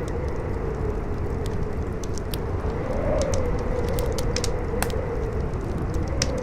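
Campfire crackling with scattered sharp pops and snaps, over strong wind that howls steadily, its pitch swelling up and falling back about three seconds in.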